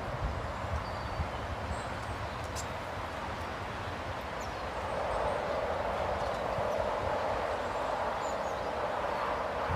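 Steady rushing outdoor background noise that grows louder about halfway through, with a few faint, short high bird chirps over it.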